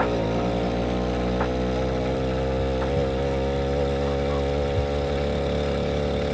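Motorcycle engine running at a steady speed, an even drone with a low rumble and a few faint ticks.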